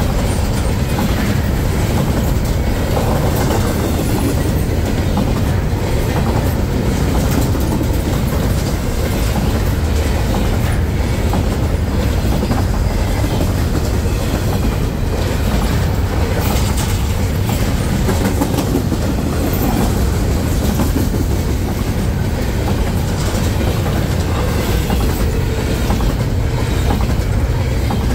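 Freight train rolling past, its cars' wheels clicking steadily over the rail joints under a continuous rumble.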